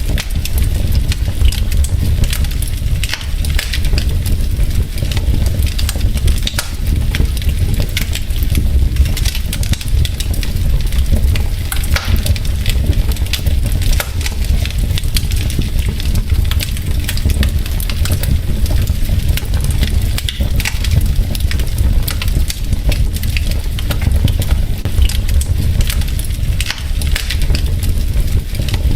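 Wood fire in a fireplace, logs crackling with many quick irregular pops over a steady low rumble.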